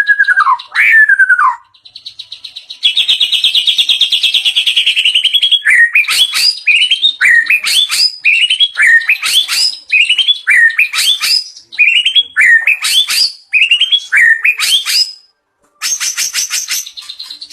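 White-rumped shama (murai batu) singing loudly and in varied phrases. It opens with a falling whistle and a fast rattling trill. Next comes a short rising upswept phrase repeated over and over, and it ends in a rapid buzzy trill.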